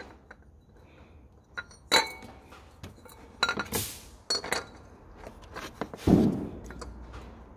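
Metal parts and hand tools clinking and tapping as the water pump pulley and its bolts are handled and fitted, with a duller knock about six seconds in.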